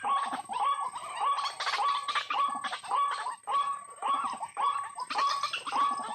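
White-breasted waterhen calling: a continuous run of harsh, repeated calls, about three a second, each stepping up in pitch.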